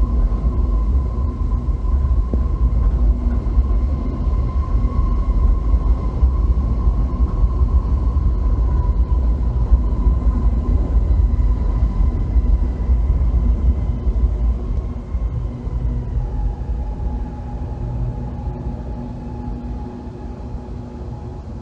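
Kuala Lumpur LRT train rolling into a terminal station: a low rumble with a steady high whine that drops in pitch about two-thirds of the way through as the train slows. The sound eases off near the end as the last car passes.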